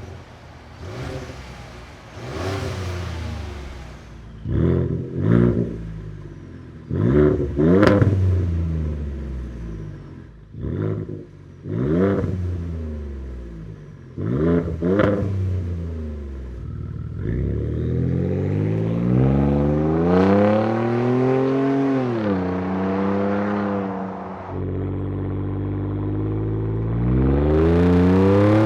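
Ford F-150's 3.5L EcoBoost twin-turbo V6 through a Flowmaster Outlaw single cat-back exhaust with welded-baffle muffler: a series of sharp throttle blips, each revving up and falling back, for about the first fifteen seconds. Then a sustained engine note as the truck accelerates, the pitch climbing and dropping back at a gear change, then climbing again near the end.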